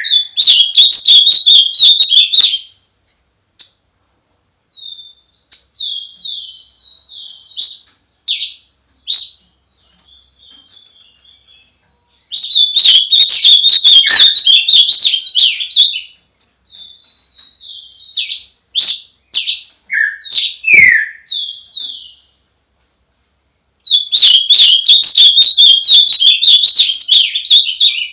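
Bird song: three loud bouts of rapid, high chirping about ten seconds apart, with quieter separate notes and short phrases in between.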